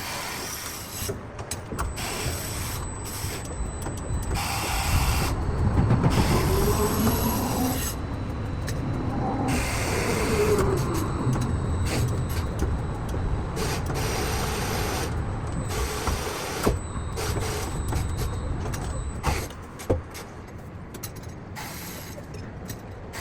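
Machinery running with a rattling, mechanical noise and a motor whine that rises and falls in pitch through the middle. It turns quieter near the end.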